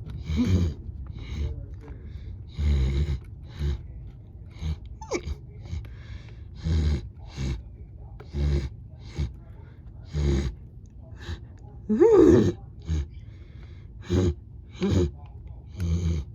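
A run of short breathy horse-style snorts and puffs, about a dozen, spaced a second or so apart. A brief squealing whinny rises and falls about twelve seconds in and is the loudest sound.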